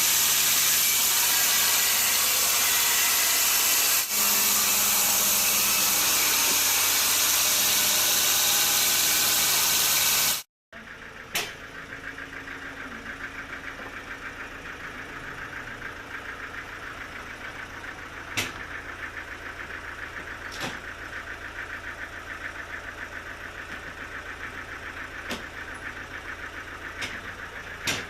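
Sawmill machinery: for about the first ten seconds a saw cuts through a log with a loud, steady, hissing noise. After a sudden break, the mill's engine runs at idle, with a few sharp knocks.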